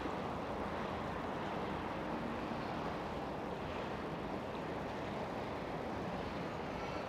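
Steady engine rumble of a passing motorboat.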